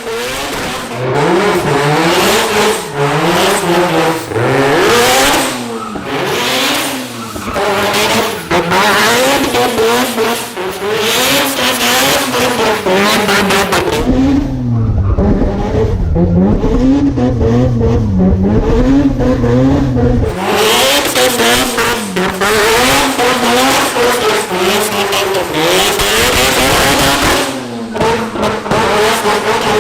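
Rotary-engined car driven hard, its revs swinging up and down about once a second, with tyre squeal as it slides. For several seconds around the middle the sound turns muffled and deeper, the high end gone.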